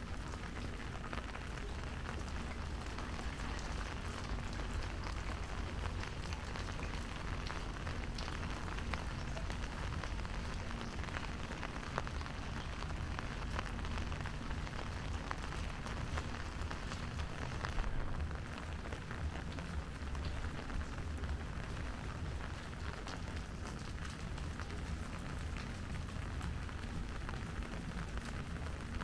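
Steady rain falling, with a dense patter of small drop ticks over a low, continuous rumble. One brief louder knock comes about two-thirds of the way through.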